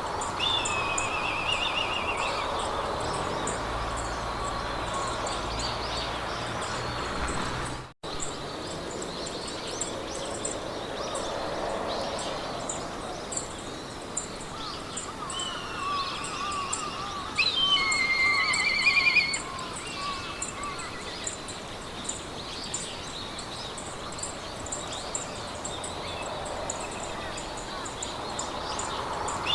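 Meadow soundscape: wind through the grass with birds singing, the loudest bird phrases a little past halfway, over a steady, rapid high chirping of insects. The sound drops out for an instant about eight seconds in.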